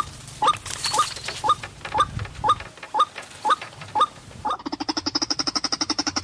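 White-breasted waterhen calling: a run of short rising notes about two a second, then, about four and a half seconds in, a fast rattling series of rapid pulses.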